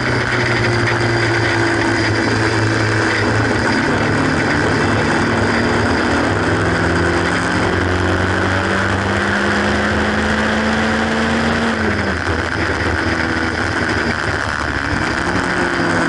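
Haynes Roadster kit car's 1800 engine under power on track, its note climbing slowly for several seconds, dropping suddenly about twelve seconds in, then climbing again near the end. A steady rush of wind and road noise lies under it in the open cockpit.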